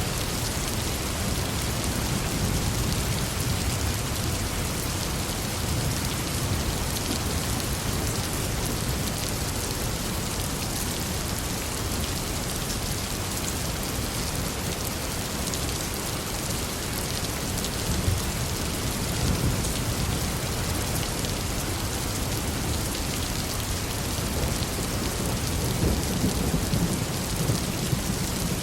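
Heavy rain pouring steadily, with low rolling thunder rumbling underneath that swells a few seconds in and again near the end.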